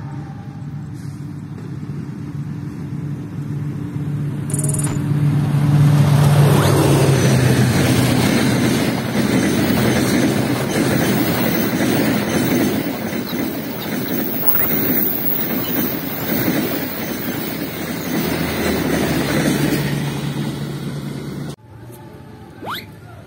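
Diesel-hauled passenger train approaching, its locomotive's engine a steady low hum that grows louder. Then a long rake of coaches runs past for about fifteen seconds with a loud, continuous rumble and clatter of wheels on rail. It cuts off abruptly near the end.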